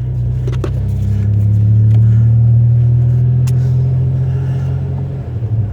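Motor vehicle engine running with a low steady hum, swelling over the first two seconds and easing off again, with a few faint clicks.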